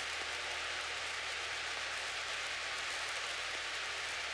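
Steady hiss of a light aircraft's cockpit intercom audio, with a thin steady tone and the Cessna 172's idling engine as a faint low hum underneath.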